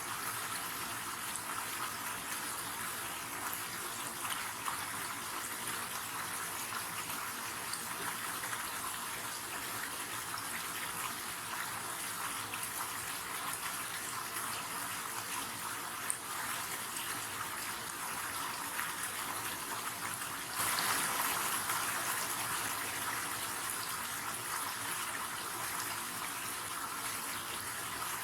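River water flowing: a steady hiss of running water, which gets suddenly louder about three-quarters through and eases off again over the following seconds.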